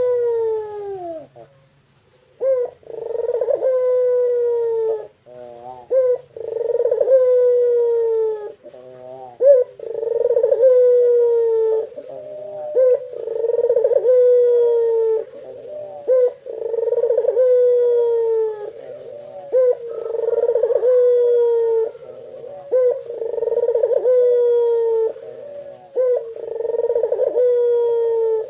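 Local puter dove (domestic ringneck dove) cooing over and over with a big, deep, melodious voice: long, slightly falling coos every two to three seconds, with short stuttering notes between them.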